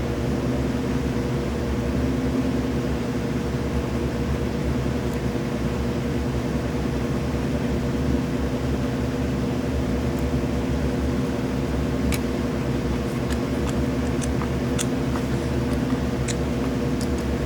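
Airbrush compressor motor running steadily, a hum with several fixed pitches. A few light ticks of handling come in the second half.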